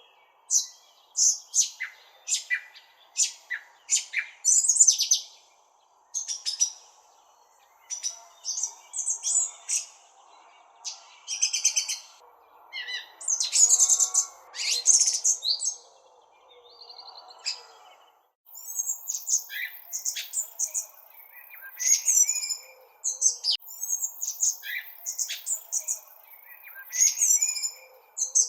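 Several birds chirping and calling in quick, overlapping bursts of high twittering phrases.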